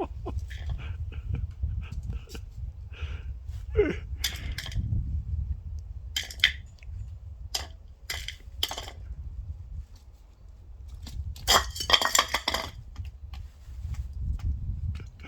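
A cat and a silkie rooster scuffling: scattered rustles and knocks over a low rumble, with a dense, loud flurry of sharp sounds lasting about a second near the end.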